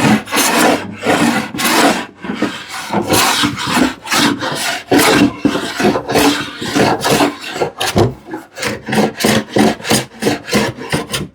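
Hand plane taking short, repeated strokes across a glued-up wooden panel, cutting away glue lines. About two strokes a second, coming faster near the end.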